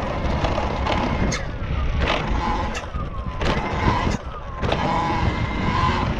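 Talaria Sting electric dirt bike being ridden over the trail: the motor's whine glides down in pitch several times as it slows, over rumbling wind noise on the microphone and a few short rushes of noise.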